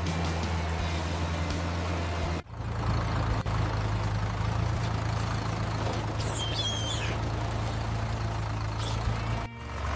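Tractor engine running steadily, with abrupt breaks about two and a half seconds in and near the end where the sound cuts and resumes. A brief high wavering sound comes in about six seconds in.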